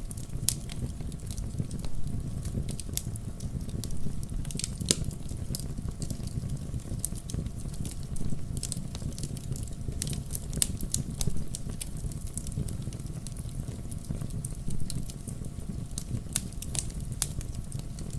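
Wood campfire burning: a steady low rumble of the flames with irregular sharp crackles and pops, coming in small clusters.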